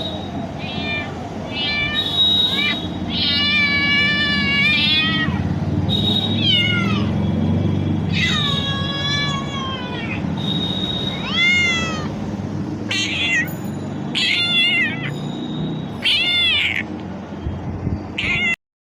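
Domestic cat meowing over and over, about a dozen calls of varying length that bend up and down in pitch, one drawn out for about two seconds, over a steady low background rumble. The sound cuts out briefly near the end.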